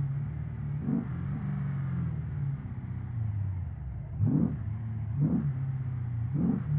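Porsche Cayenne Turbo S twin-turbo V8 heard from inside the cabin while driving: a steady low engine note with short surges in pitch and loudness about a second in and three more in the second half.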